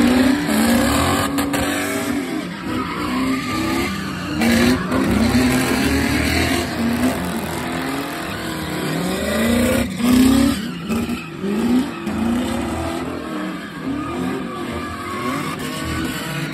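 A Ford Mustang GT's V8 and an Infiniti G35 sedan's V6 revving up and down over and over while spinning donuts, with tires skidding and squealing on the pavement.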